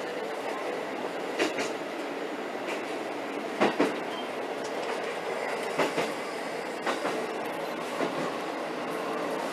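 Diesel railcar running along the line, heard from inside the cab area: a steady running noise with the wheels knocking over rail joints every second or two, a quick double knock about four seconds in.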